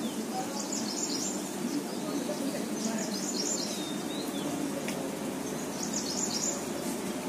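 Birds chirping in three short bursts of quick, high notes, with a brief falling whistle between them, over a steady background of outdoor noise.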